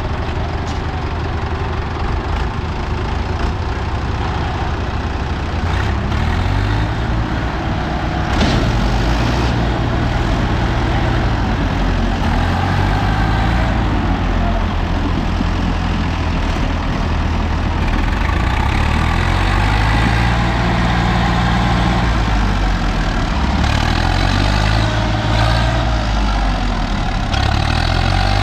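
Two tractors' diesel engines straining under heavy load in a tug-of-war. After a steady run for the first few seconds, the engine speed rises and falls again and again as the tractors pull against each other.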